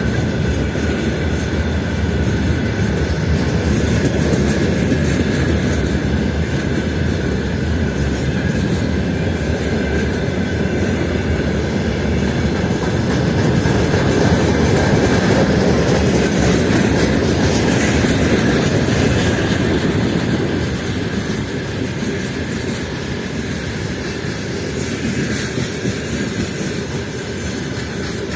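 Freight train wagons rolling through a station: wheels clattering over rail joints under a steady rumble, with a thin high wheel squeal. It grows a little quieter from about twenty seconds in.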